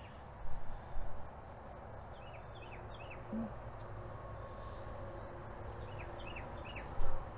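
Insects, typical of crickets, chirping in a steady high pulse a few times a second, with two short runs of quick falling bird chirps. A steady low rumble underlies it, and a few brief knocks of handling come about half a second in, at a second and near the end.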